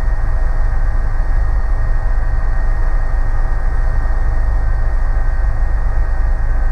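Helicopter cabin noise in steady flight: a constant low rumble from the rotor and turbine with a steady whine of several tones above it.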